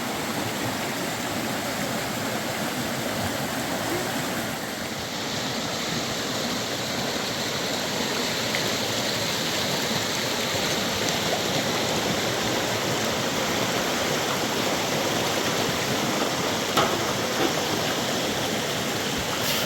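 Steady rush of flowing water, like a stream running over stones, with a couple of light clicks near the end.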